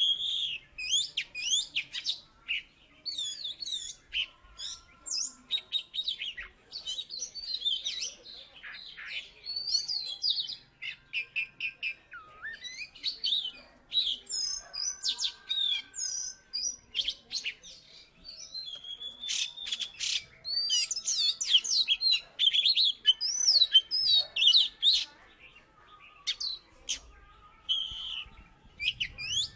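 Oriental magpie-robin (kacer) in full song: a rapid, varied run of whistles, trills and chirps that sweep up and down in pitch, broken by short pauses.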